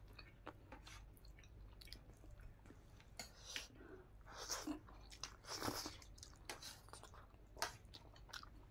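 A person chewing a mouthful of rice and cooked greens eaten by hand: soft, wet mouth sounds with small clicks, busiest about four to six seconds in.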